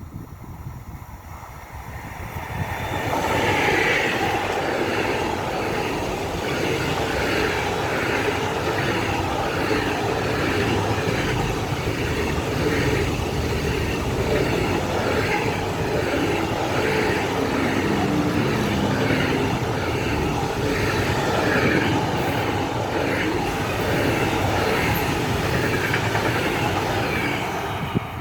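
Freight train of sawn-timber wagons hauled by a class 185 electric locomotive passing by. The rolling noise swells up over the first few seconds, then holds loud and steady with a regular repeating clatter of wheelsets over the rails as the wagons go by.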